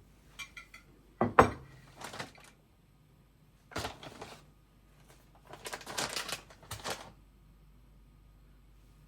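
Objects being handled: irregular clicks, knocks and light clatter, with one sharp knock about a second and a half in and a longer run of rattling near the middle and around six seconds.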